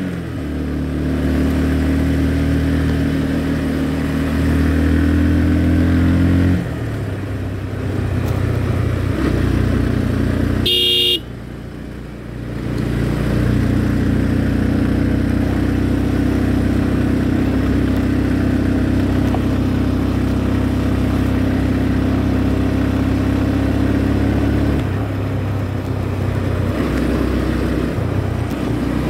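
Motorcycle engine running under way, its pitch and load shifting a few times as the throttle changes. Just before eleven seconds in, a short horn beep sounds as the engine eases off for a moment, then it picks up again.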